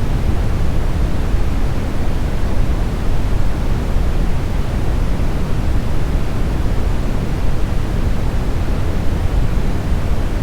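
Smoothed brown noise: a steady, deep rush of synthetic noise, strongest in the bass, with no changes or events.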